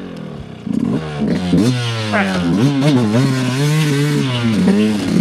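Dirt bike engine on a trail ride: running at low revs for a moment, then opened up about a second in and ridden on with the throttle worked on and off, the engine note rising and falling over and over.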